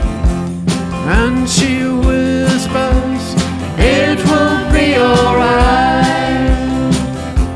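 Country-style band playing live, with a steady kick-drum beat under sustained lead notes that slide in pitch twice.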